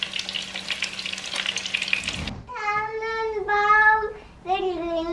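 Battered chicken breast pieces sizzling and crackling in hot oil in a frying pan as they are turned with forks. About two seconds in this gives way to a toddler singing a few long, held notes in short phrases.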